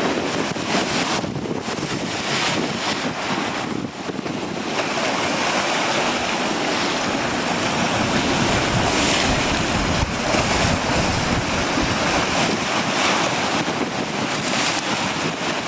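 Strong gusty wind buffeting the microphone, with waves surging in the background. The rush swells and eases from gust to gust.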